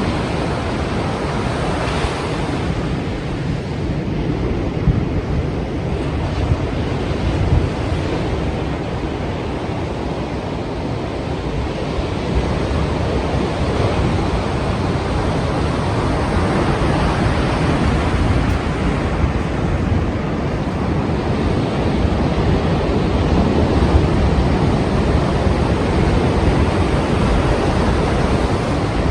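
Strong sea waves surging and breaking in a continuous wash of surf, with wind buffeting the microphone.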